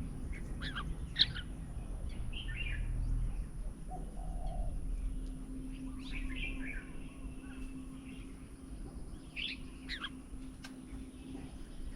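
Small birds chirping and calling in short, quick phrases, in several separate bouts.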